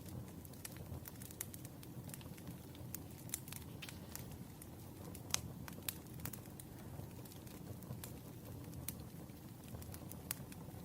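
Light, irregular clicks and taps of pen and paper being handled on a desk during letter writing, over a low steady hum.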